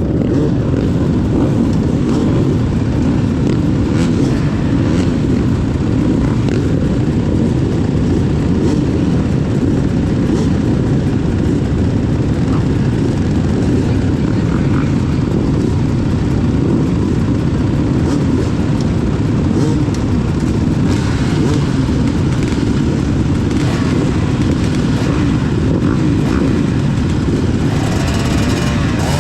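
Motocross motorcycle engines running during track practice, heard as a dense, steady low rumble. Near the end a bike revs up with a rising pitch.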